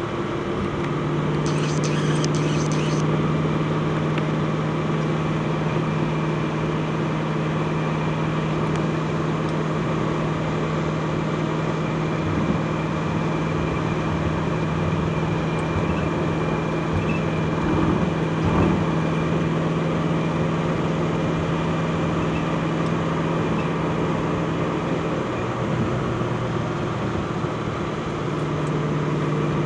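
Twin-turbo Ford GT's 5.4-litre V8 running at a steady idle. Its pitch dips lower about 25 seconds in and comes back up near the end.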